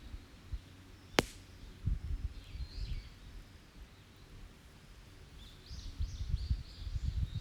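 Wood campfire burning on open ground, with one sharp pop from the burning wood about a second in. Songbirds call in the background, and low rumbling comes and goes.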